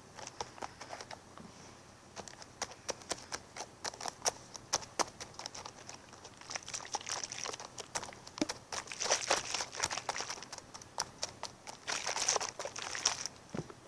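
Crinkling and crackling handling noise: a quick, irregular run of sharp clicks and short rustling bursts, coming more densely in the second half.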